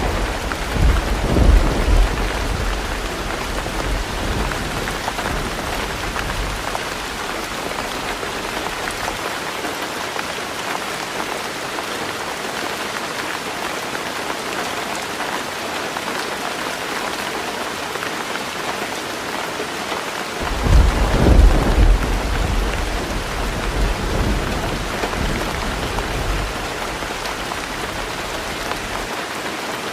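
Heavy rain falling steadily on a tin roof. Thunder rumbles at the start and fades over the first several seconds, and a second rumble of thunder comes about two-thirds of the way in.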